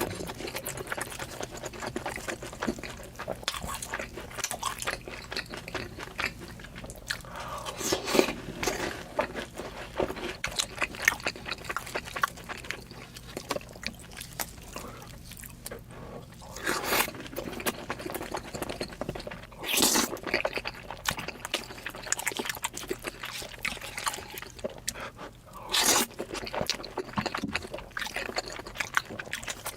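Close-up eating sounds of a mukbang played at double speed: wet chewing, smacking and slurping of food, with many small clicks and a few louder moments.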